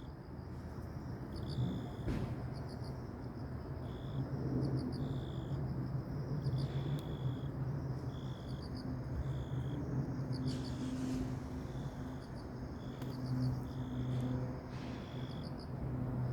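Insects chirping: short high-pitched calls that repeat again and again at irregular intervals, over a steady low hum.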